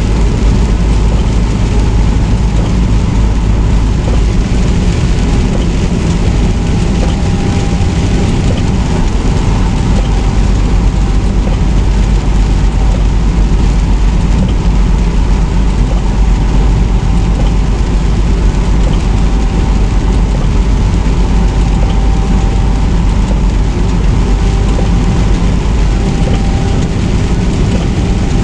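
Semi truck driving on the highway in the rain: a steady, loud engine and road rumble with a hiss of rain and wet tyres.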